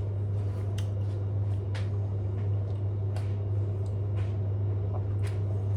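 A steady low hum with a few faint, scattered clicks and small handling or mouth noises.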